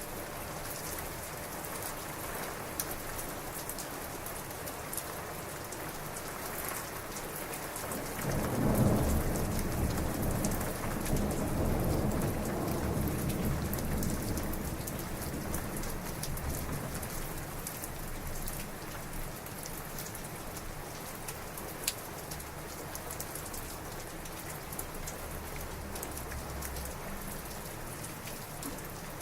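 Heavy rain falling steadily, with many small drop clicks. About eight seconds in, a long roll of thunder rumbles in and slowly dies away over the next fifteen seconds or so.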